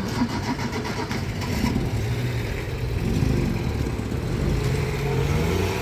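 Street traffic: a motor vehicle's engine running past, its pitch rising and falling over the last few seconds, over a steady low rumble.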